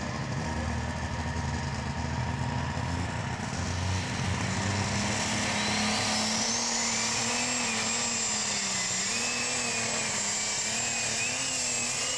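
Super stock pulling tractor's turbocharged engine running hard under load. About five seconds in, a high turbocharger whine rises and then holds while the engine pitch wavers.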